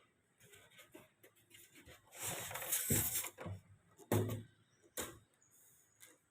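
Handling noises from unboxing: faint ticks, then a burst of rustling about two seconds in, and three separate knocks about a second apart.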